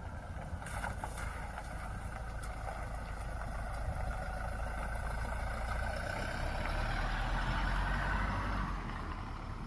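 A motor vehicle passing on a road, its engine and tyre noise building slowly and then falling away near the end.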